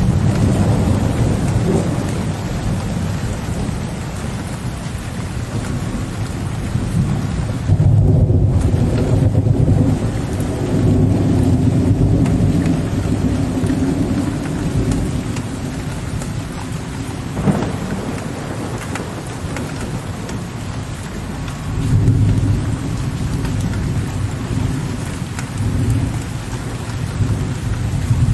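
Steady rain falling with low thunder rolling beneath it, the rumble swelling about a third of the way in and again near the end.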